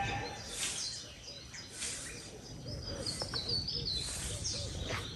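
Outdoor ambience with birds chirping, including a quick run of high chirps a little past three seconds in, over a low call that repeats throughout.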